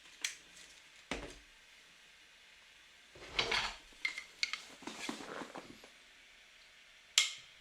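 Small objects being handled on a hard surface: a few scattered clicks and taps, with a short rustling scrape about three seconds in.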